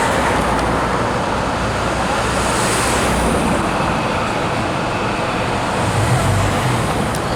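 Yarra Trams B2-class tram running through the stop: a steady rumble of wheels and motors, with a faint whine joining a few seconds in.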